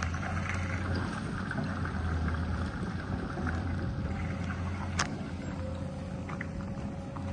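Doosan DX220 excavator's diesel engine running steadily with a low hum, with one sharp click about five seconds in.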